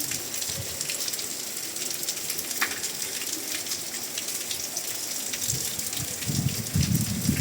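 Steady rain falling, heard as a constant hiss with many separate drops striking close by. A short chirp comes about two and a half seconds in, and low muffled sounds come in near the end.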